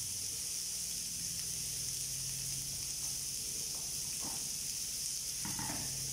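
Chicken skewers sizzling in a grill pan: a steady hiss, with a low steady hum underneath and a few faint knocks in the second half.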